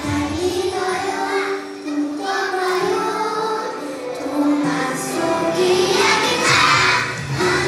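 A group of young children singing a song together over music.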